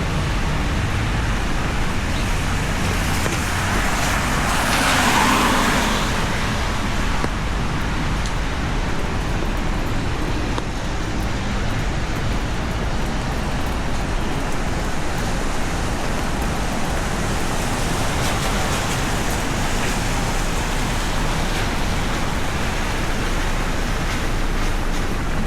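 Steady hiss of rain and traffic on a wet city street, with a vehicle swishing past on the wet pavement about five seconds in.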